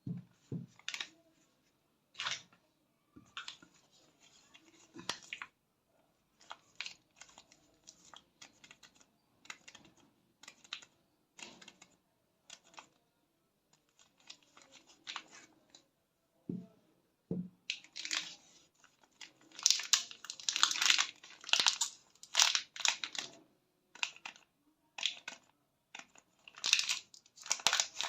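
Soap bar wrappers being torn open and crinkled, with quick crisp clicks and taps of handling. The tearing and rustling grow busiest about two-thirds of the way through.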